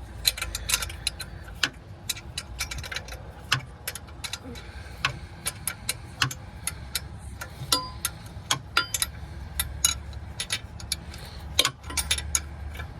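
Metal hand tools clicking and clinking on a bolt: wrenches and sockets being tried and worked on a tight exhaust mount bolt. The clicks are irregular and come several a second, a few ringing briefly. A steady low hum runs underneath.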